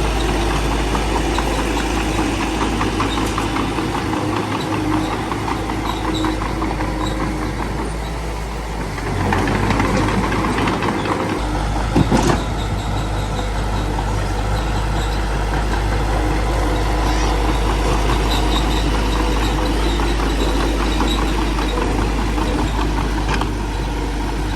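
Small bulldozer's diesel engine running steadily as it works. It grows louder about nine seconds in, and there is one sharp bang or clank a few seconds later.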